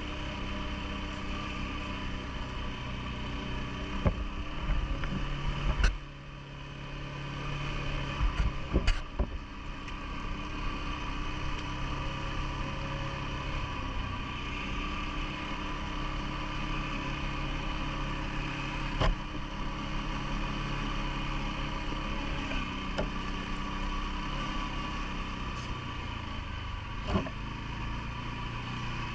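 CFMoto ATV engine running at a steady speed, with a few sharp knocks and thumps scattered through it, the loudest cluster a few seconds in.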